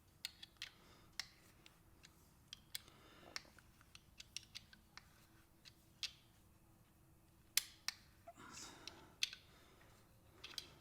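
Faint, irregular sharp clicks of a hand tool working a motorcycle bolt as it is tightened, with a short soft rustle about eight seconds in.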